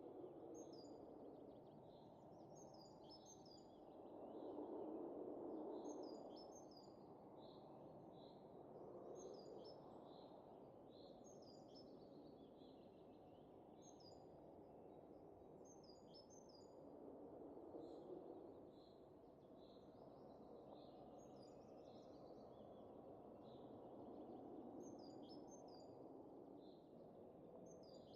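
Faint wind blowing in soft gusts, the strongest about four seconds in, with small birds chirping in quick repeated notes over it.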